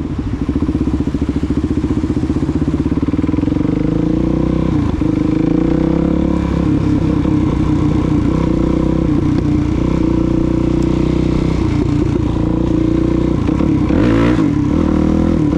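Suzuki DR-Z400SM's single-cylinder four-stroke engine pulling away from low revs and then running under way. The revs rise and fall several times as the bike is ridden and shifted.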